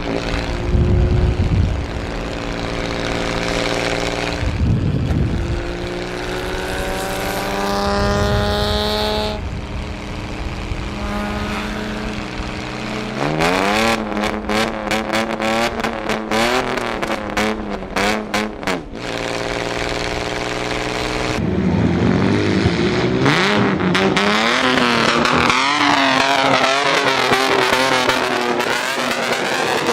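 Modified vehicle engines revving up and down and accelerating past, with a run of sharp exhaust cracks in the middle.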